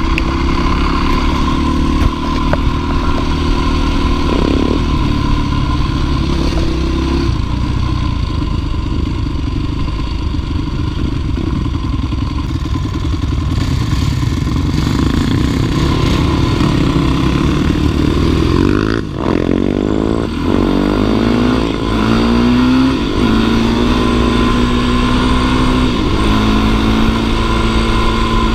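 Dirt bike engine running hard under load on a climb, its revs rising and falling with the throttle. About two-thirds of the way in the revs drop briefly, then climb again.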